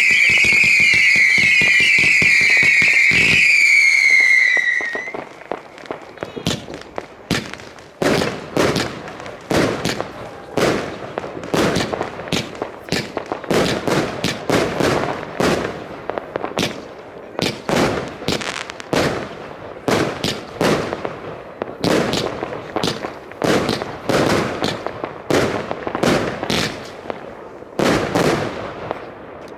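Fireworks going off: a dense run of falling whistles for about the first four seconds, then a long string of sharp bangs, roughly one or two a second, as shots burst overhead.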